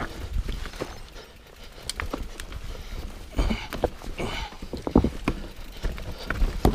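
Mountain bike clattering over rocks: tyres rolling and thudding on rock, with irregular knocks and rattles from the frame and drivetrain. The hardest hits come about five seconds in and near the end.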